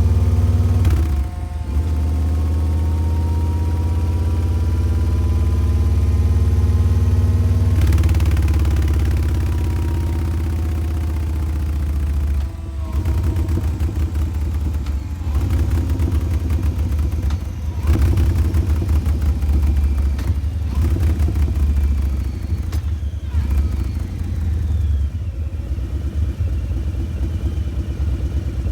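Harley-Davidson Breakout's Milwaukee-Eight 114 V-twin running through Vance & Hines Eliminator 300 slip-on mufflers. Engine speed rises and falls slowly over the first dozen seconds, then the beat turns choppy and uneven, with repeated short dips and surges of throttle.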